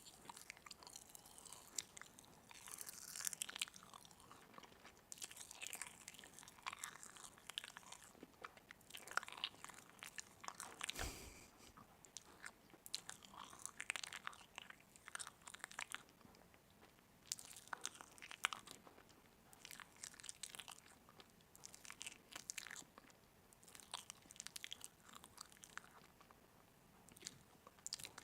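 Crunchy food being bitten and chewed, faint, in short crackling bursts every second or two with quiet between. One duller thump about eleven seconds in.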